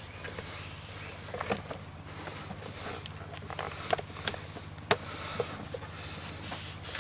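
Scattered sharp clicks and light knocks from equipment being handled, a second or two apart, over a steady low hum and a faint hiss.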